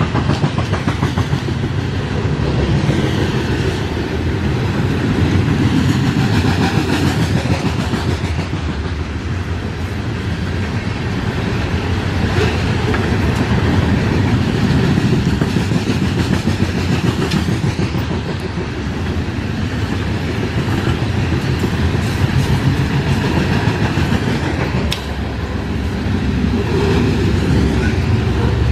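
Coal hopper cars of a long BNSF freight train rolling past at close range: a steady rumble of steel wheels on rail, with the continuous clickety-clack of wheels passing over rail joints.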